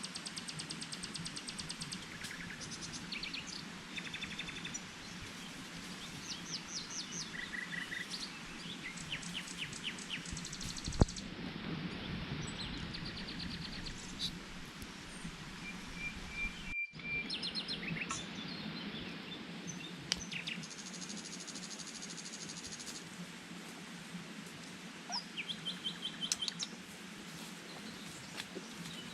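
Wild birds chirping and giving short rapid trills, call after call, over a steady background hum. There is one sharp knock about eleven seconds in.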